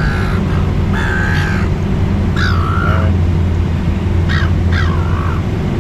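Silver gulls (seagulls) squawking, about five harsh, short calls that drop in pitch, from birds crowding in to beg for food. A steady low hum runs underneath.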